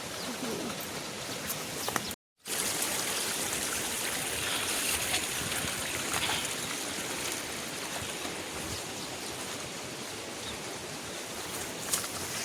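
Steady rush of flowing water, briefly cut off about two seconds in.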